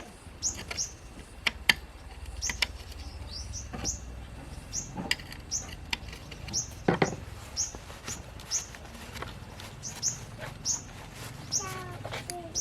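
A small bird chirping over and over in short, high, falling notes, with a few sharp knocks in between and a low steady hum underneath.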